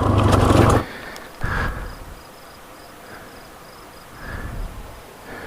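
Yamaha TW200's single-cylinder four-stroke engine idling, then cutting out abruptly under a second in as it is switched off. Afterwards only faint high chirps repeat a few times a second.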